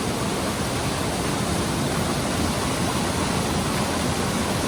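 Floodwater in a rain-swollen mountain stream rushing steadily, a constant, loud roar of water.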